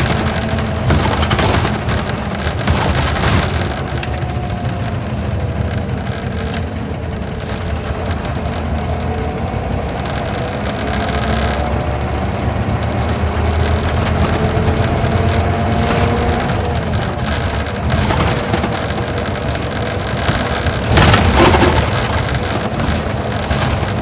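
Isuzu Gala coach's V-type diesel engine running while the bus drives along, heard from inside the passenger cabin, its engine note slowly rising and falling with speed. Road noise and rattles of the body go with it, and a louder bump comes about 21 seconds in.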